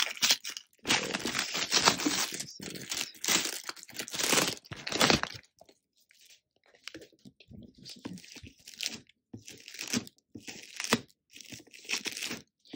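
Ceiling-fan packaging being handled and opened: irregular crinkling, crunching and tearing of box and wrapping. The rustling is loudest through the first five seconds, then thins to scattered quieter crackles.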